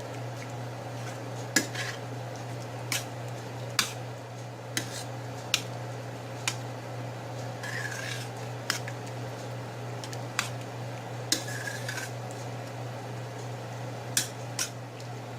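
Spoon clinking and scraping against a pot as sour cream is stirred into chili: sharp knocks roughly once a second, irregular, over a steady low hum.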